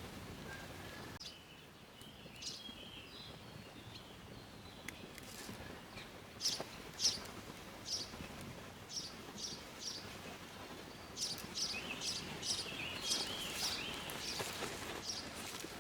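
Small birds chirping and singing over a faint steady outdoor background. Short, sharp high chirps repeat irregularly through most of it, with brief warbling phrases near the start and again in the last few seconds.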